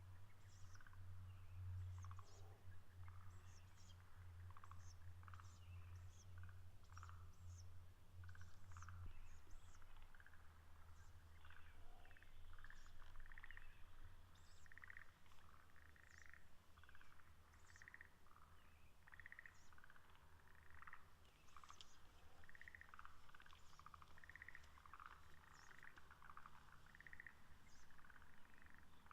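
Faint evening chorus of many short, repeated animal calls, over a steady low hum that drops somewhat about nine seconds in.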